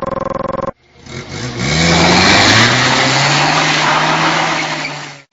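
A small truck engine revving up, its pitch rising and then holding at high revs, under a loud rushing hiss of tyre and road noise while drifting. The sound breaks off abruptly near the end. Before it, a buzzing, pulsing sound cuts off about a second in.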